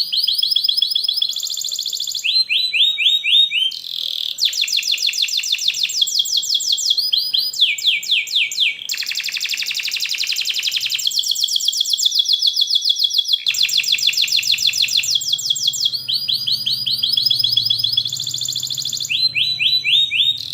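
Domestic canary singing a long continuous song of rapid trills: each phrase is a fast run of one repeated syllable, and the song switches to a new phrase every second or two.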